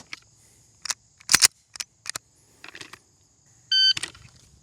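A few sharp clicks and knocks, then near the end a shot timer's start beep: one short electronic tone that signals the start of a timed run.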